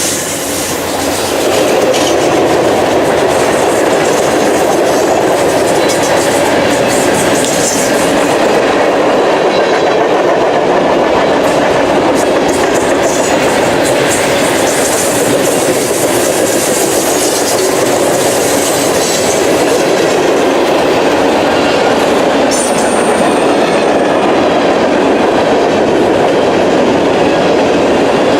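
Freight train rolling past at track side, a loud, steady rumble and clatter of wheels on rail, with a brief high-pitched squeal near the end.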